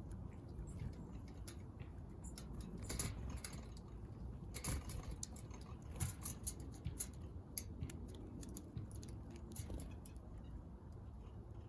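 Irregular soft taps and clicks of small birds pecking at seed, over a steady low rumble.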